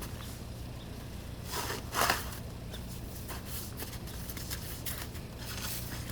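Snow shovel scraping and crunching through snow in short irregular strokes, with one louder scrape about two seconds in, over a steady low hum.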